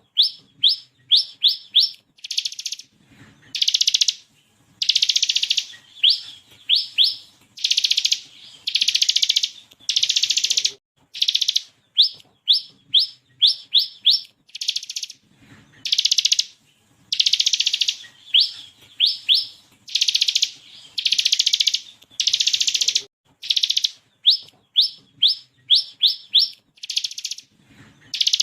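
Bar-winged prinia (ciblek) singing: buzzy rattling bursts alternate with quick runs of three to five sharply rising notes, the pattern repeating over and over.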